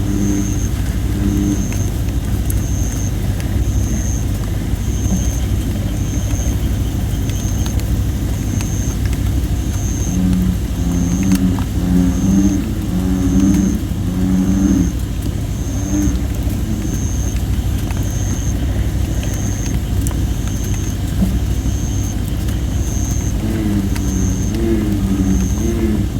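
Campfire of thin, under-dried red robin (Photinia) wood hissing, with a few sharp crackles. American bullfrogs call over a steady low drone, in bouts of low repeated notes at the start, in the middle and again near the end. A short high note repeats evenly, a little slower than once a second.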